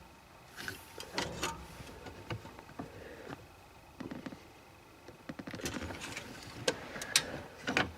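Engine oil dipstick being pulled from its tube, wiped and pushed back in for a second reading: scattered light metallic clicks and scrapes, busiest in the second half.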